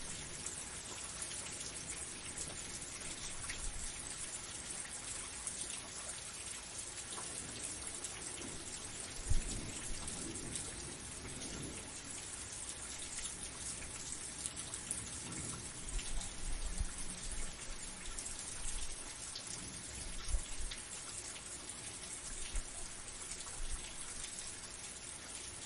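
Steady rain falling in a dense patter, with a few low thuds: a sharp one about nine seconds in and softer low swells later.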